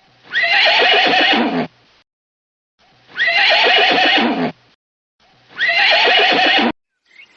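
An animal's call, three times over, each about a second and a half long with short silent gaps between. The three calls match closely, as if one recording were repeated.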